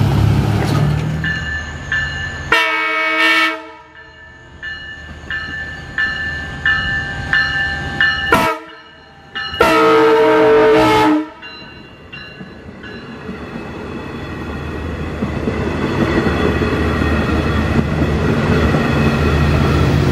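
LIRR diesel train sounding its multi-tone horn in two long blasts, about 3 s and 10 s in, over the steady dinging of a grade crossing bell that stops about 13 s in. A low diesel rumble then grows louder as the train comes closer.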